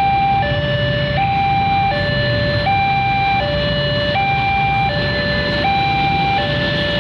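Two-tone warning siren steadily alternating between a higher and a lower tone, each held about three quarters of a second, over a low rumble.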